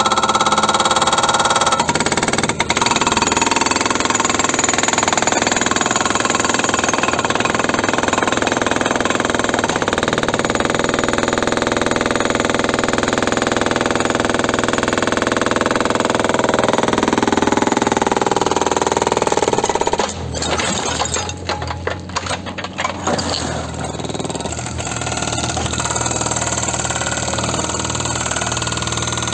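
Loud, continuous noise of running machinery, which drops off abruptly about twenty seconds in, leaving a quieter, steadier engine running with a low hum.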